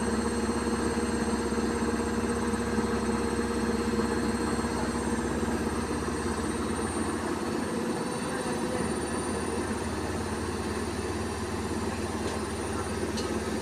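Beko WKY71233LSYB2 washing machine spinning at high speed on its 1200 rpm spin-and-drain cycle: a steady hum with a faint high whine. The low rumble underneath fades about halfway through.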